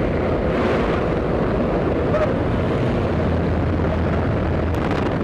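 Steady rumble of a propeller aircraft in flight, with a low hum running under it.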